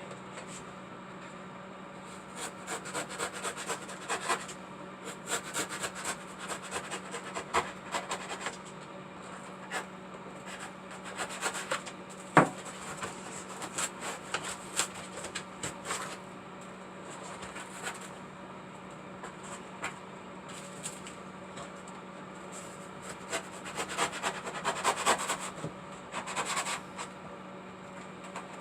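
Irregular bouts of hand scraping and rubbing on a hard surface, with one sharp knock about twelve seconds in, over a steady low hum.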